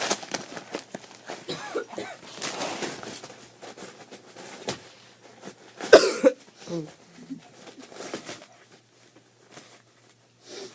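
Wrapping paper rustling and crinkling as a dog tears open a gift, with one short, loud cough-like sound about six seconds in.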